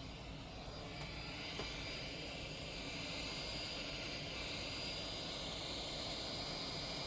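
A steady airy whoosh from a small fan or blower, with a thin high whine; the hiss grows fuller about a second in.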